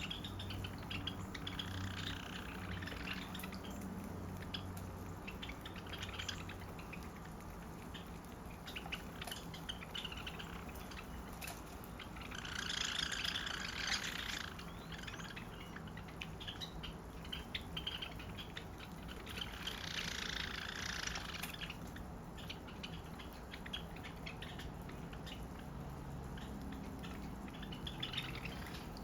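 A flock of Java sparrows chirping: many short, high chirps throughout, with two denser bursts of chatter about twelve and twenty seconds in.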